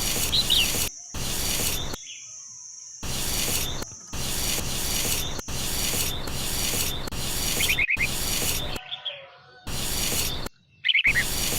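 Harsh rubbing or scraping noise in several short stretches that start and stop abruptly, with a few short bird chirps between them.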